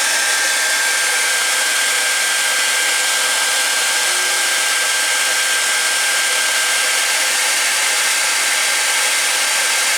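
Hair dryer running steadily: an even rush of blown air with a thin, steady high whine.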